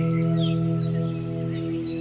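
Calm ambient background music: a sustained chord held steadily, with birdsong chirps layered over it.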